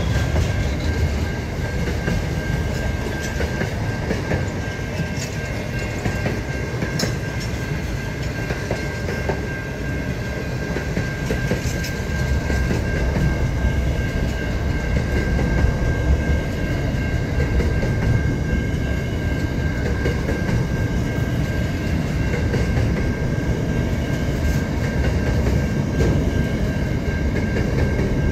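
Freight train of container and trailer wagons rolling past close by: a steady rumble of wheels on rail, growing a little louder about halfway through, with a thin steady high whine and a few faint clicks of wheels over the rail joints.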